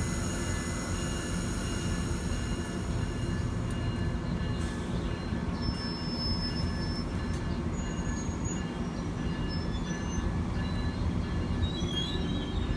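Amtrak Amfleet passenger train at a station platform, with a steady low rumble throughout. From about five seconds in, faint thin high-pitched wheel squeals come and go as the coaches start to pull away.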